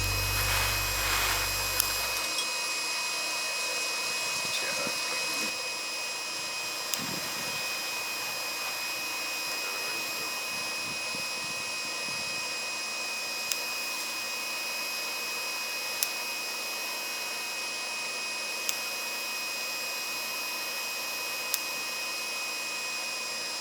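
Electric air pump running steadily as it inflates an inflatable tent, a constant whirring hiss with a few sharp clicks.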